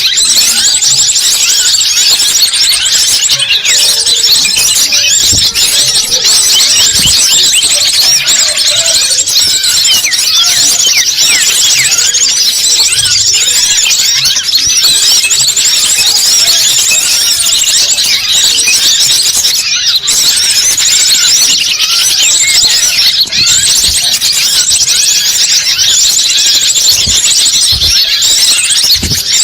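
A dense, continuous chorus of many small birds chirping and twittering over one another, high-pitched and without pause: a bird-lure (pikat) recording of the kind played to draw wild birds in.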